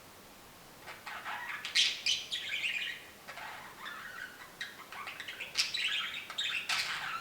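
Budgerigar warbling its chattering song: a rapid run of varied chirps, squeaks and clicks, starting about a second in.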